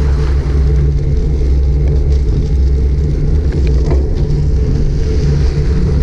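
Steady low wind rumble and road noise on a GoPro Hero 5 Black's microphone while riding a bicycle, with a couple of faint clicks near the middle.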